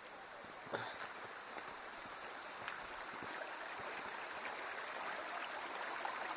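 Steady rush of flowing stream water, growing gradually louder, with one sharp knock about three-quarters of a second in.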